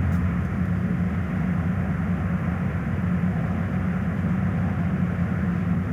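Truck engine running steadily with a low, even rumble.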